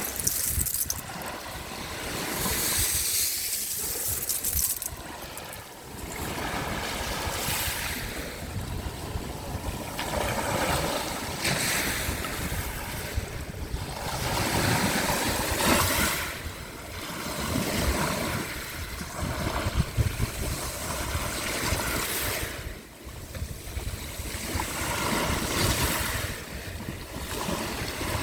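Waves of the Sea of Azov washing onto the shore, the surf swelling and easing every few seconds, with wind rumbling on the microphone.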